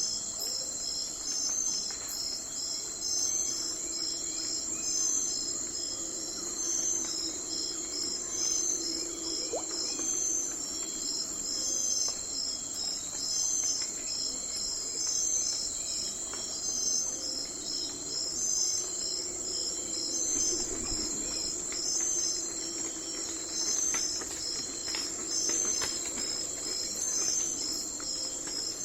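Night-time insect chorus of crickets chirping steadily in a dense high trill, pulsing at a regular rhythm, with a faint low hum underneath.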